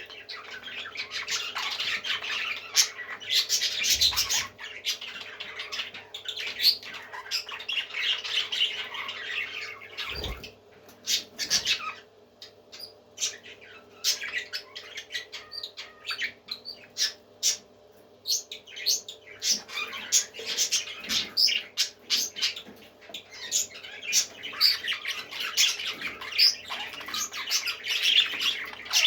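Parrots squawking and chattering in many short, overlapping calls. The calling thins to scattered squawks for several seconds in the middle, then picks up densely again.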